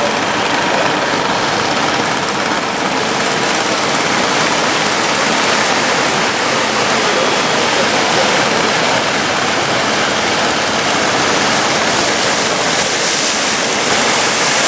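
Steady, loud rushing of big sea waves, with no separate strokes or events.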